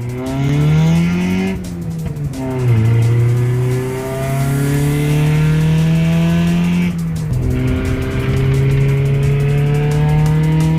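Car engine accelerating hard through the gears, its revs climbing steadily in each gear, with two upshifts, about two seconds in and about seven seconds in, where the pitch drops before climbing again.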